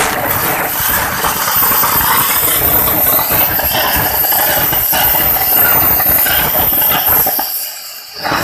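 Model-scale turbojet engine running on test: a loud rushing hiss with a steady high-pitched whine. Near the end the sound drops away sharply for under a second, then comes back.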